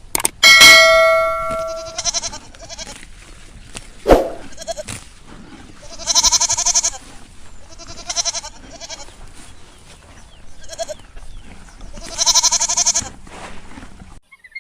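An animal giving several long, wavering bleat-like calls, the loudest about 6 and 12 seconds in, after a single bell-like ring near the start and a sharp knock about 4 seconds in.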